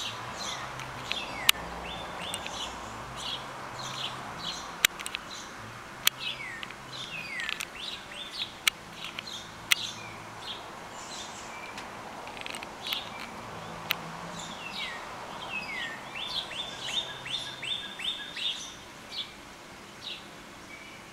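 Songbirds chirping, many short calls sliding down in pitch, with a quick run of evenly spaced notes near the end. A few sharp clicks come now and then.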